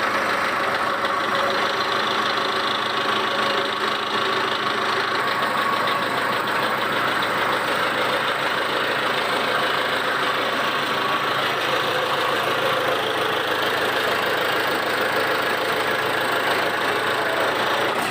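Belarus 820 4x4 tractor's four-cylinder diesel engine idling steadily.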